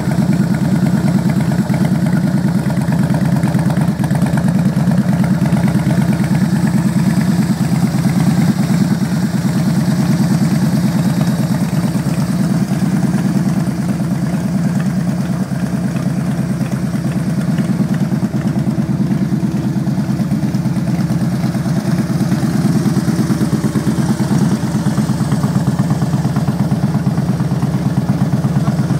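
2009 Harley-Davidson FLTR's V-twin idling steadily through a loud Thunderheader aftermarket exhaust.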